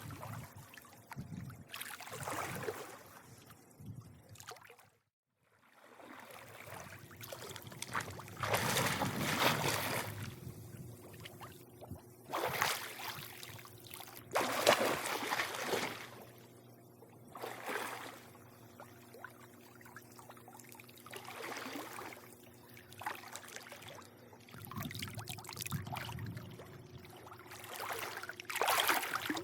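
Swimming-pool water lapping and sloshing in irregular swells, some louder than others, over a faint steady hum. The sound drops out completely for about half a second around five seconds in.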